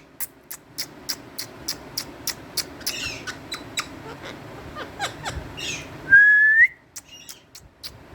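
Indian ringneck parrot making a quick run of sharp clicks, about four a second, mixed with a few short chirps. About six seconds in comes one loud, clear whistle rising in pitch.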